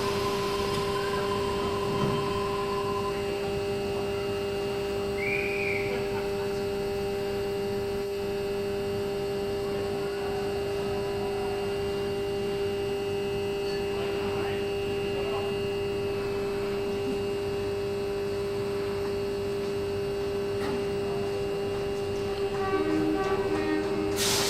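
Steady electrical hum of a Tangara electric train standing at the platform. A few short beeps sound about a second before the end.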